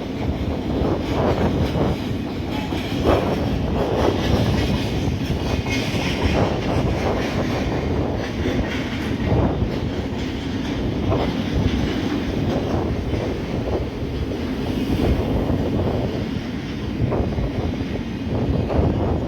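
Train running on the rails, its wheels clattering steadily over the rail joints.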